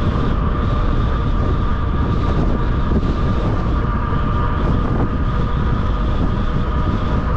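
Wind rushing over the microphone and the steady hum of a 750-watt fat-tire electric bike riding at about 26 mph, with a constant high-pitched whine over the rumble.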